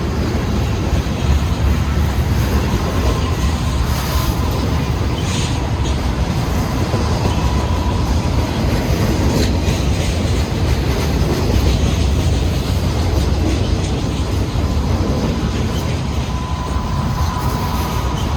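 Union Pacific freight train rolling past steadily: a low rumble of wheels on rail, a few clanks, and a faint thin wheel squeal.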